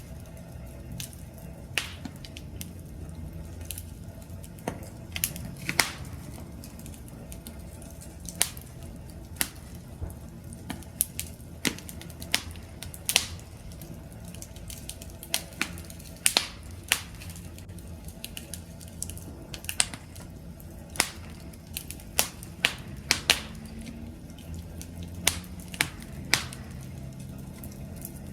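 Wood campfire crackling: irregular sharp pops and snaps, several clustered together at times, over a low steady rumble of burning flames.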